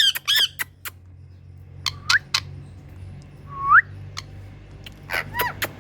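Indian green parrot (rose-ringed parakeet) giving two harsh squawks, then sharp clicks and two rising whistles, with a burst of calls near the end.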